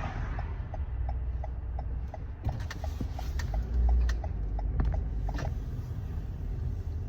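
Car turn-signal indicator ticking at about three clicks a second, over the low rumble of the engine and road inside the cabin.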